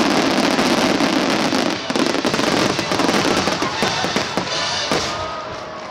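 Fireworks finale barrage: many aerial shells and ground-fired comets bursting at once in a dense, continuous crackle of bangs. It eases off in the last second.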